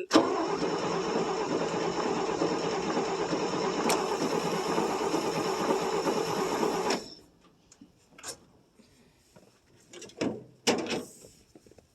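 1959 International B120's swapped-in V8 cranking over steadily on the starter without firing, for about seven seconds, then stopping suddenly. The engine likely lacks spark. A few short knocks follow.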